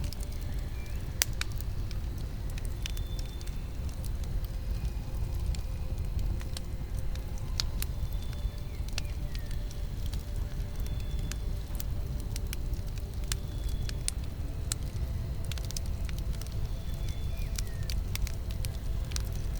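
Wood fire crackling, with irregular sharp pops and snaps over a steady low rumble. A faint, short, high chirp recurs every couple of seconds.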